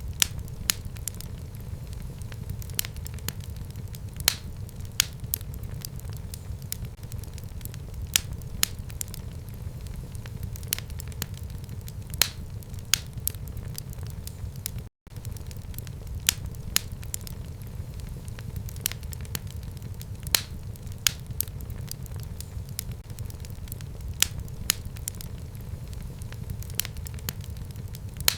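Wood fire burning in a home fireplace: a steady low rumble of flames with frequent sharp crackles and pops from the burning wood. There is a split-second break in the sound about halfway through.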